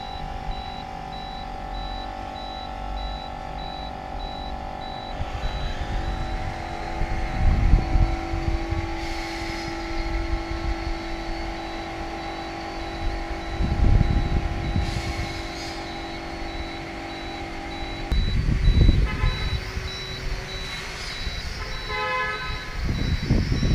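Sky Viper V950 HD quadcopter's small electric motors and propellers whining steadily in flight, the pitch shifting about three quarters of the way through, with gusts of wind rumbling on the microphone several times.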